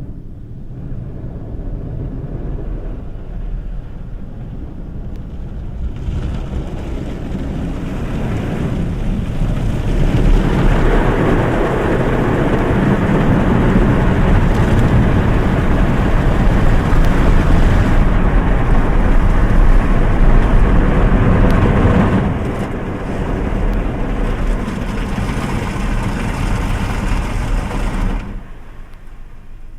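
Automatic car-wash machine working over a kei car, heard from inside the cabin: a steady rushing noise that builds over the first ten seconds, stays loud, eases about 22 seconds in and drops away near the end.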